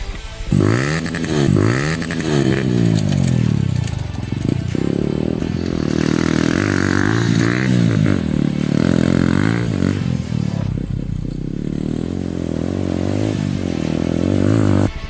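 Yamaha R15 dirt-bike conversion's single-cylinder engine revving up and down over and over, its pitch rising and falling several times. The engine sound cuts in about half a second in and stops abruptly near the end.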